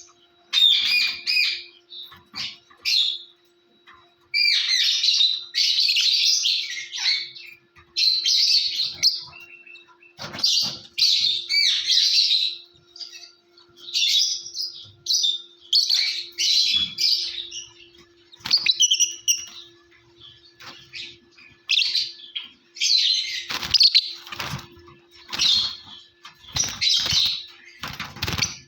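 Lovebirds chirping and chattering in shrill bursts of a second or two, with short pauses between, over a faint steady hum.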